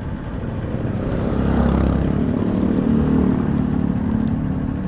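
Rusi KR200 dirt bike's engine under way, the revs rising over the first couple of seconds and then holding steady, with wind rushing past.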